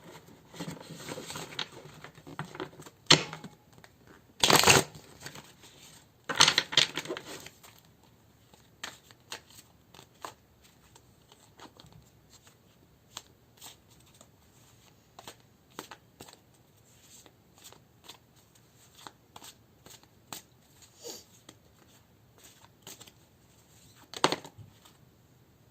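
Tarot cards being shuffled and handled: rustling with a few louder card slaps in the first seven seconds or so, then scattered light taps and clicks, and one more sharp slap near the end.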